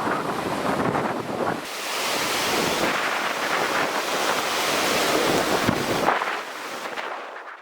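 Ocean surf washing and breaking, with wind buffeting the microphone. It turns from a low rumble to a brighter hiss a couple of seconds in, and drops lower near the end.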